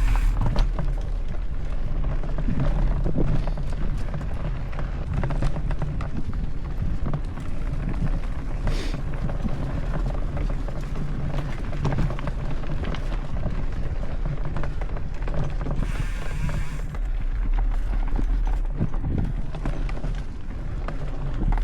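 Mountain bike ridden along a dirt trail: wind rumbling on the camera microphone, with tyre noise and continual irregular rattling and knocking from the bike over rough ground.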